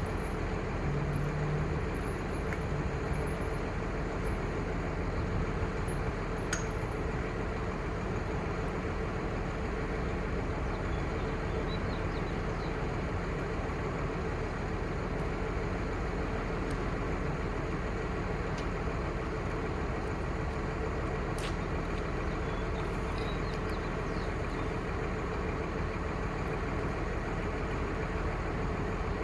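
Truck's 5.9L Cummins six-cylinder turbo diesel running steadily at idle.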